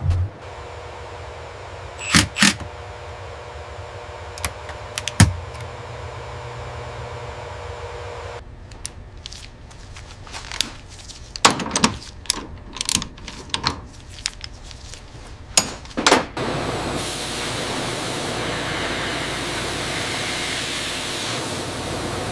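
Hand-tool work on metal: sharp clicks and clanks over a steady machine hum, a few at first and then a quick run of them, giving way to a steady hiss like rushing air about three-quarters of the way through.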